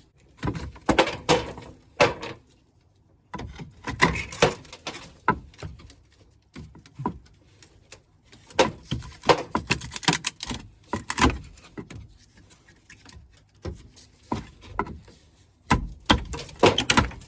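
Irregular knocks, clatters and rustling as old ceiling debris, plaster, lath pieces and nest material, is pulled out and handled by hand.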